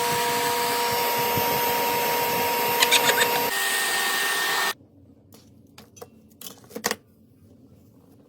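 RevAir reverse-air hair dryer running loud, a steady rushing suction noise with a thin whine on top, drawing a section of hair into its wand at high heat. It cuts off abruptly about four and a half seconds in, followed by a few soft handling clicks and knocks.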